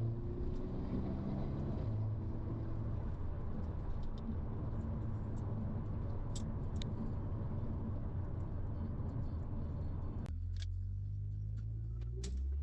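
Car engine and road noise heard during a drive, the engine running at a steady pitch. About ten seconds in the road noise drops away suddenly, and near the end the engine note rises as the car accelerates.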